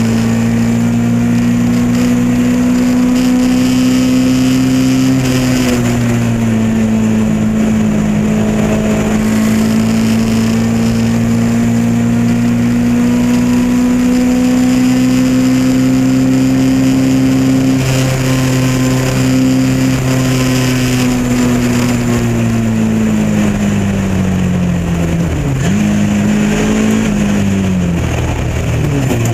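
Lotus Elan Modsports race car's engine running flat out, its pitch held high and nearly steady for long stretches. Near the end the pitch drops, rises again briefly and falls once more as the car brakes and changes down.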